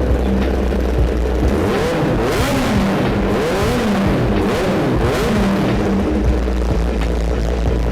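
Kawasaki Ninja ZX-10R's inline-four engine through an aftermarket Arrow Pro Race exhaust, idling and then blipped about four times, the revs rising and falling each time before it settles back to idle.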